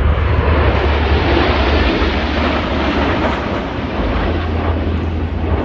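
Alpha Jets of the French Air Force display team passing overhead: a loud jet rush that swells about a second or two in and then eases off a little, over a steady low rumble.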